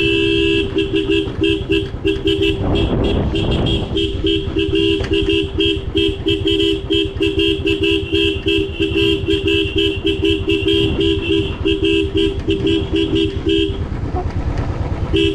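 A vehicle horn honked in rapid short toots, several a second, for about fourteen seconds, stopping briefly and starting again near the end, over a steady low rumble of engine and wind from a moving motorcycle.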